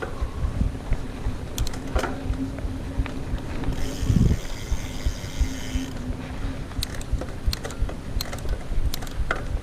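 Mountain bike riding over a trail: tyre rumble and wind on the microphone, with the chain and frame rattling over bumps. A heavy thump comes about four seconds in, and from then the rear hub freewheel buzzes for about two seconds while the bike coasts.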